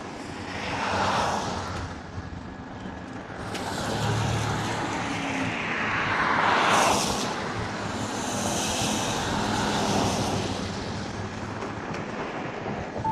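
Road noise on a scooter ride through city traffic: a steady rush of wind and passing vehicles that swells several times, loudest about seven seconds in as something goes by close.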